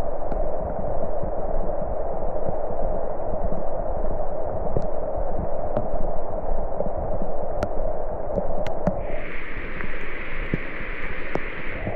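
Steady rain, a dense hiss with scattered sharp ticks of drops. About nine seconds in, a second, higher-pitched hiss joins, breaks off briefly near the end and starts again.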